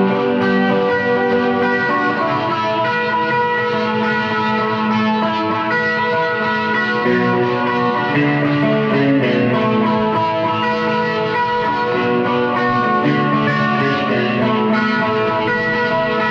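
Electric guitar capoed high up the neck, picking and strumming open first-position major chords around D, C, A minor and G, with a tighter, higher tone thickened by tri-chorus and a short delay. The chords ring on and overlap steadily without a break.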